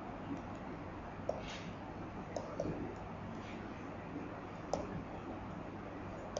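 Writing on a board: a few sharp taps and two short scratches over steady room hiss.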